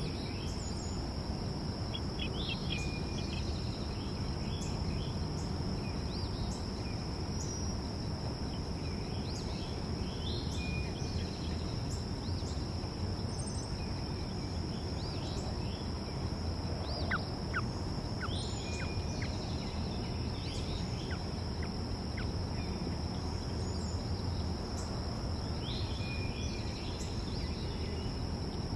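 Backyard ambience: a steady high-pitched insect drone over a constant low rumble, with birds chirping on and off and a quick run of short chirps a little past the middle.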